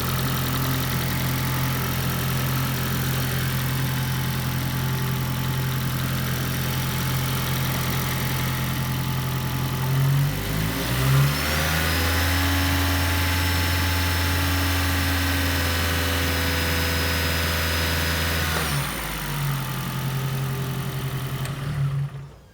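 Toyota Prius petrol engine running steadily at idle, changing to a different steady engine speed for about eight seconds midway through, then settling back. The sound cuts off suddenly near the end.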